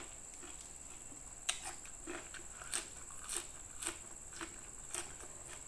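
Close-up chewing of a mouthful of raw leafy greens: a crisp crunch about every half-second, seven in all, starting about a second and a half in.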